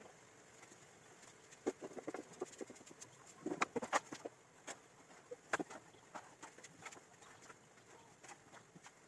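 Mealworms chewing into zucchini: irregular crisp clicks and ticks of their mandibles biting the flesh, bunching into a brief flurry about halfway through.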